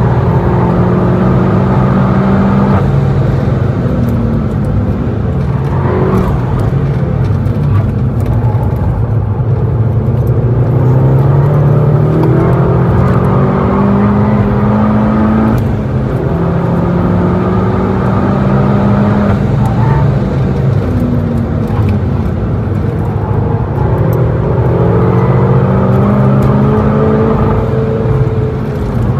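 Turbocharged 2.0-litre four-cylinder engine of a VW Golf GTI Clubsport S heard from inside the cabin at track speed. It rises in pitch under hard acceleration and drops back several times as the car shifts gears and slows for corners, with tyre and road noise beneath.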